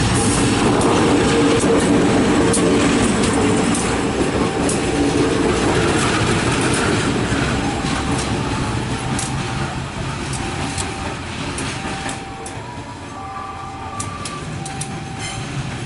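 A train passing close by: a loud rumble with wheels clicking over the rail joints, easing off in the second half as it moves away.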